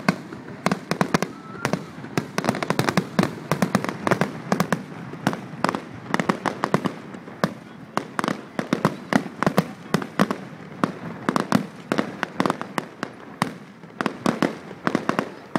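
Fireworks display: many sharp bangs in quick, irregular succession, several a second.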